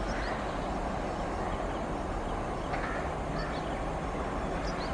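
Approaching WAP-4 electric locomotive and its passenger coaches running along the track with a steady rumble. A few short, high bird chirps sound over it.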